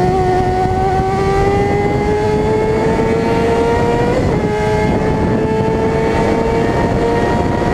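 Suzuki GSX-R 600 inline-four engine running hard at high revs, its pitch climbing slowly for about four seconds, dipping quickly, then holding steady. A steady rush of noise runs underneath.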